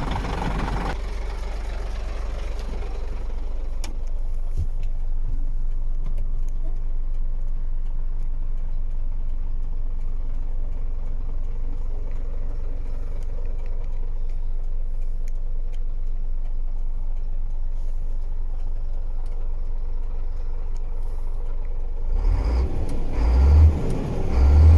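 Scania P94.220 truck's diesel engine idling steadily, then blipped in a few short revs near the end.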